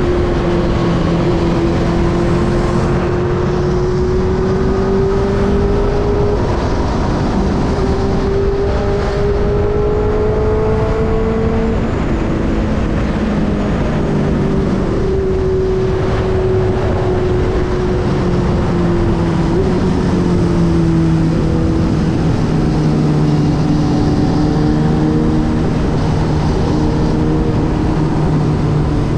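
Benelli TNT 600i's inline four-cylinder engine running while the motorcycle is ridden, its note slowly rising and falling with a couple of sudden drops, about twelve and twenty seconds in, over a steady rush of road and wind noise.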